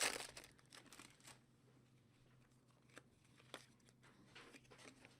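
A trading-card pack wrapper torn open in one short rustling burst at the start, then faint clicks and rustles of cards and wrappers being handled.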